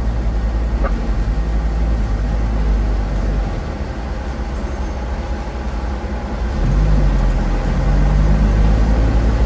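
Motor vehicle engine running with a steady low rumble while driving. About two-thirds of the way through, the engine note rises and gets louder.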